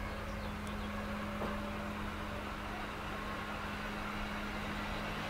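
Passenger coaches of a slowly moving train rolling along the platform: a steady rumble of wheels on rail with a constant low hum that stops near the end.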